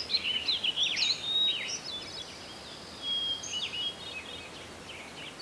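Small birds chirping and singing in quick, sweeping calls over a faint steady outdoor hiss; the calls are busiest in the first two seconds, with a few more around three seconds in.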